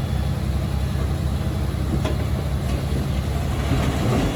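Diesel engine of heavy earth-moving machinery running steadily, its sound mostly low-pitched, with a faint click about two seconds in.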